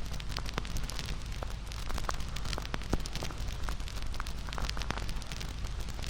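Wood fire crackling: frequent sharp pops and snaps over the steady low rumble of the flames, with one louder pop about three seconds in.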